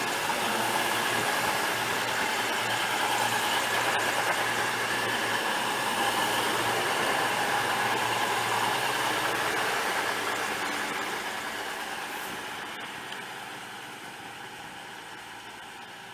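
CrossCountry Class 221 Super Voyager diesel-electric unit running with a steady engine hum and whine. The sound dies away from about ten seconds in.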